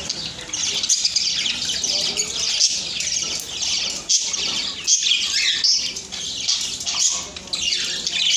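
A group of budgerigars chirping and chattering together, many quick overlapping chirps and warbles with no break.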